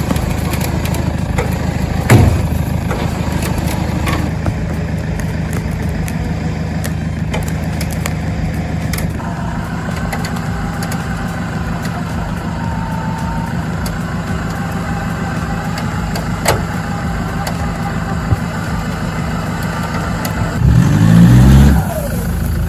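A vehicle engine running steadily, with scattered sharp clicks and snaps, and a louder rising surge near the end.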